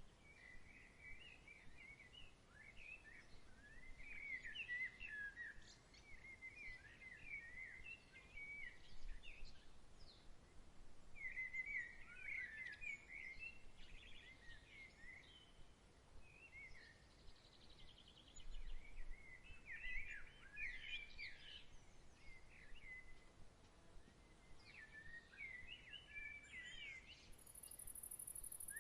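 A songbird singing phrases of quick rising and falling notes, each bout lasting a second or two with short pauses between, faint over a steady outdoor hiss.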